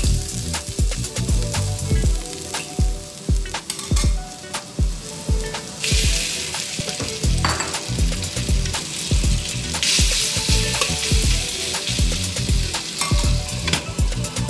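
Oil sizzling in a hot wok as ginger is stirred with a spatula, then a louder, hissing sizzle about six seconds in, and again near ten seconds, as beef strips hit the hot oil. Background music with a steady beat plays underneath.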